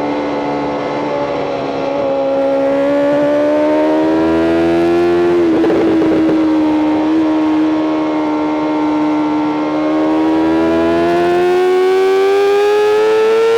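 BMW M 1000 RR's 999 cc inline-four engine running hard at high revs, its pitch climbing slowly and steadily. About halfway there is a brief break where the pitch dips slightly before climbing again.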